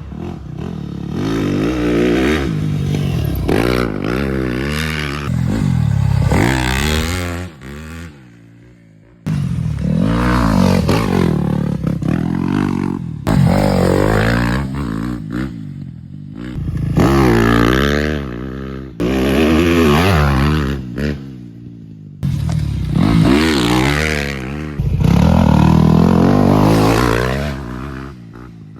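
Motorcycle engine revving repeatedly, its pitch climbing and dropping again and again. The sound breaks off abruptly a few times.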